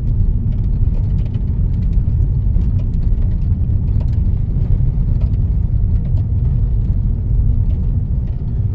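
Car driving along a rural road, heard from inside the cabin: a steady low rumble of tyres and engine, with a few faint scattered ticks.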